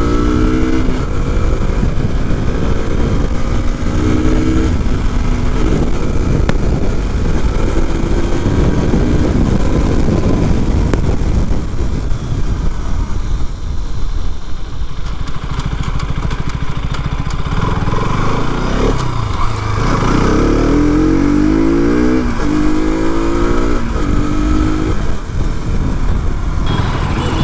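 KTM RC 200's single-cylinder four-stroke engine under acceleration, its pitch climbing and dropping back at each gear change several times over, with a steady rushing noise underneath. The engine eases off midway, then pulls hard again through a run of quick upshifts near the end.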